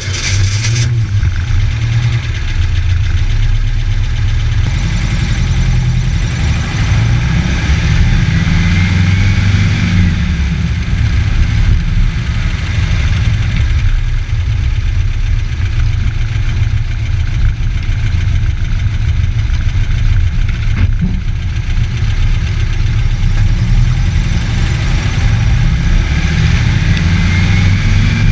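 Air-cooled 1968cc VW flat-four engine of a 1968 Karmann Ghia running on a test drive, its revs rising and falling. A faint whine climbs in pitch with the revs twice.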